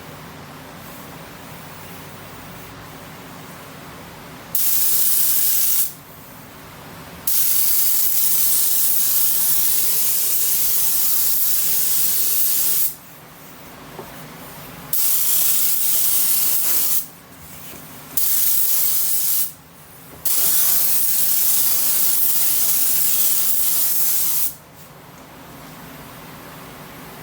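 Compressed-air paint spray gun hissing in five bursts as the trigger is pulled and released, the longest about five seconds, while paint is sprayed onto an engine. A low steady hum runs underneath.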